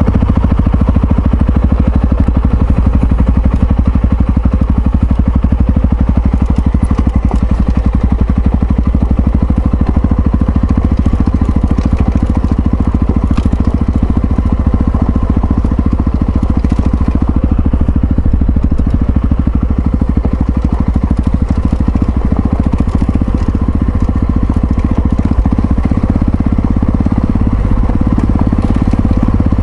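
Yamaha XT660Z Ténéré's single-cylinder engine running steadily under way, a dense low pulsing that holds at an even pace throughout.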